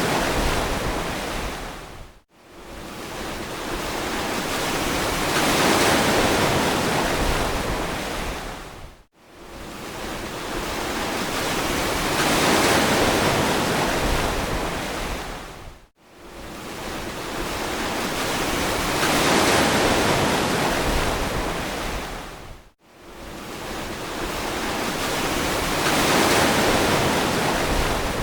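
Ocean waves breaking and washing on a beach, a hiss that swells and ebbs about every seven seconds. Each cycle cuts out abruptly for a split second, four times in all.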